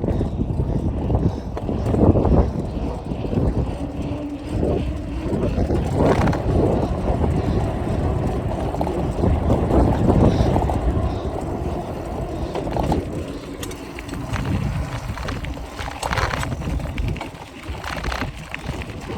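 A mountain bike being ridden: a continuous low rumble with irregular clanks and rattles from the loose, rattly chain and the phone shaking in its mount.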